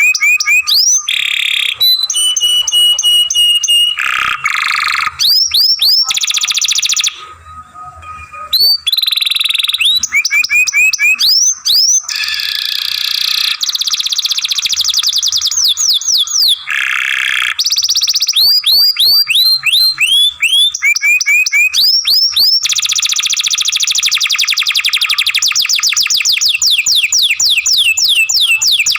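Canary singing a long, varied song of fast repeated trills, each phrase a rapid run of rising or falling chirps, with one short break about seven seconds in.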